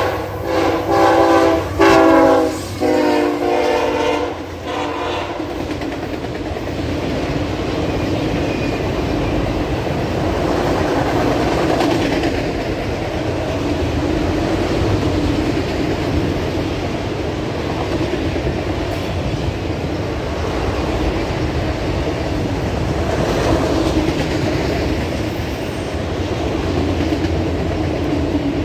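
Norfolk Southern diesel freight locomotive's air horn sounding in several blasts during the first five seconds. The steady rumble and clatter of autorack freight cars rolling past follows.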